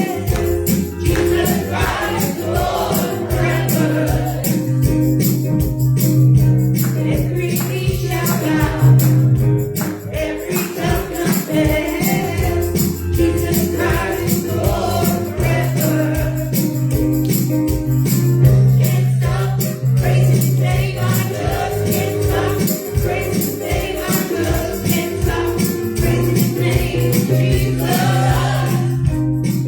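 Live gospel worship music: voices singing over held bass notes and a steady beat, with a tambourine shaking and jingling throughout.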